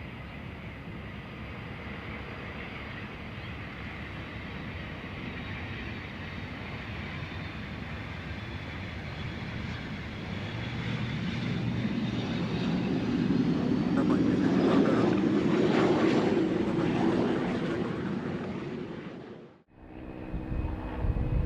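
Fixed-wing aircraft engine noise passing by: a steady rush with a faint high whine, growing louder to a peak about two-thirds of the way in, then fading before it cuts off suddenly.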